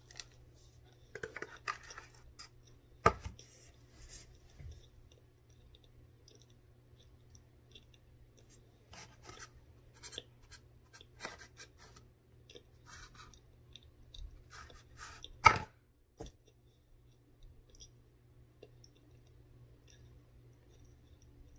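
Close-up chewing and crunching of frozen cornstarch: irregular crisp crackles and squeaky crunches, with a louder sharp click about three seconds in and another about fifteen seconds in.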